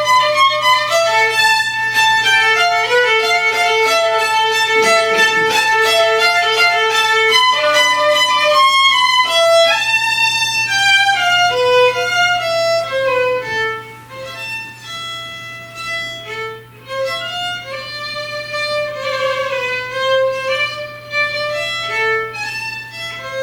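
Solo violin playing a melody, busy and loud for about the first half, then quieter with slower, longer-held notes.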